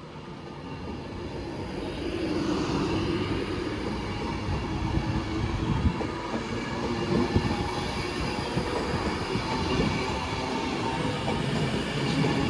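Class 390 Pendolino electric train pulling out and running past, its traction whine and wheel noise growing louder over the first two seconds and then holding steady, with a few knocks of wheels over rail joints.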